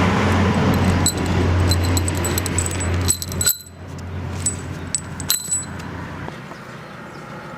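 A loud steady hiss over a low hum cuts off about three and a half seconds in, leaving a quieter hiss. Small metal parts clink sharply several times.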